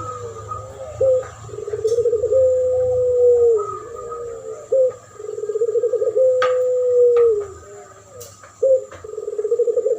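Puter pelung dove cooing again and again. Each call is a quick run of rolling notes that runs into a long, level coo and drops away at the end, with roughly three calls a few seconds apart.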